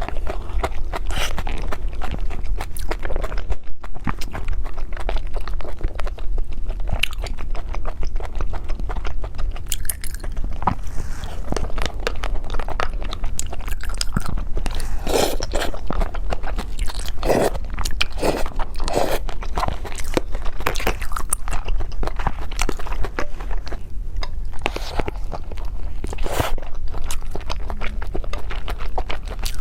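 A person biting and chewing cake, a continuous run of irregular crunchy mouth clicks and smacks.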